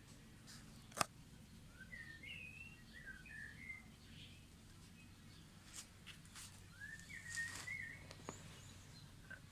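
Bird chirping in the background: a run of short chirping notes about two seconds in and another near the end. A single sharp click or knock about a second in is the loudest sound.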